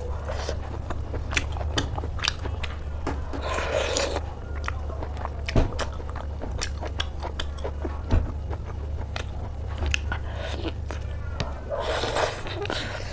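Close-miked chewing and biting of pork belly: a stream of sharp wet mouth clicks and crunches, with louder stretches about four seconds in and near the end. A steady low hum runs underneath.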